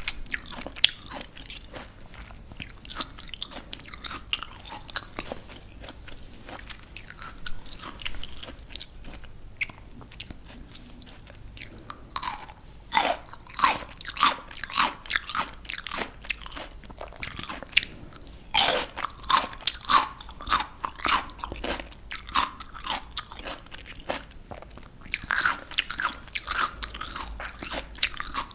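Close-up crunching and chewing of crisp raw vegetables: softer steady chewing at first, then louder bouts of sharp crunchy bites and chews in the second half.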